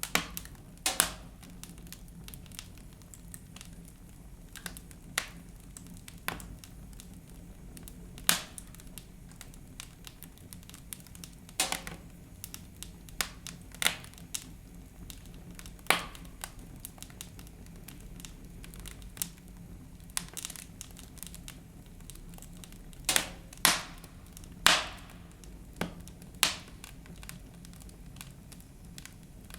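Wood fire burning in a fireplace, crackling with irregular sharp pops every second or two, including a cluster of louder pops near the end.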